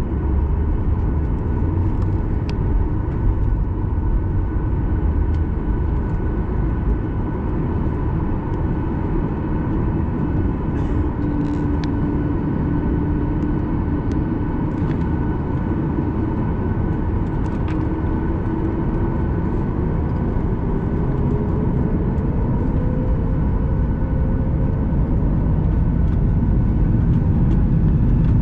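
Cabin noise of a Boeing 737 MAX 8 during takeoff: the CFM LEAP-1B turbofans and airflow make a loud, steady rumble with a steady whine. Midway a tone rises slowly in pitch, with a few light clicks and rattles.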